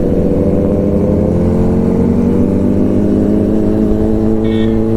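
Motorcycle engine running at a steady speed, its pitch easing slightly downward, with a short high beep about four and a half seconds in.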